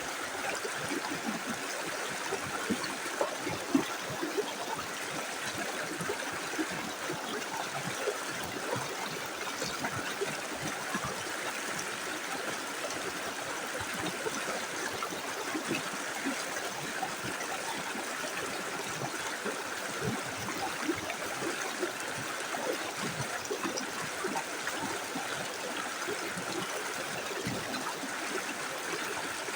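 Small river running steadily over stones, a constant rush of water with gurgles and trickles.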